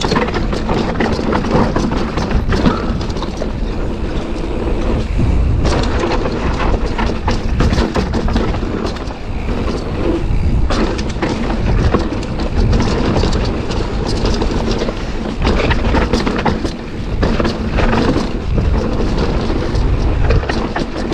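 Wind buffeting a helmet- or bike-mounted action camera on a fast downhill mountain-bike run, a heavy low rumble, with the Commencal bike's tyres, frame and chain clattering and knocking over rocks throughout.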